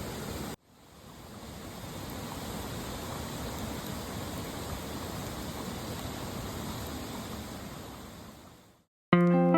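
Steady rushing of a mountain stream, cut off abruptly and then fading back in and out again. Guitar music starts right at the end.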